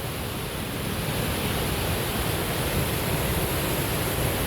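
Steady rush of water from a nearby waterfall and creek, an even noise that grows slightly louder about a second in.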